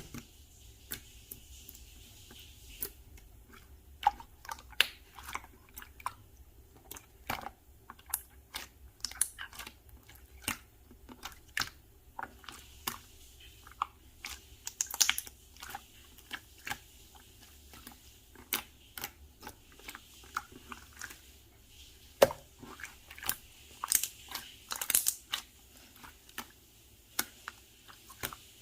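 Slime being squished and pressed by hand, giving irregular sticky clicks and pops several times a second.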